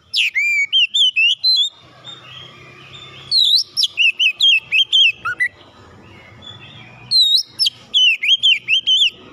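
Oriental magpie-robin (kacer) singing: three bursts of loud whistled phrases with swooping, up-and-down notes, each about two seconds long, with short pauses between them.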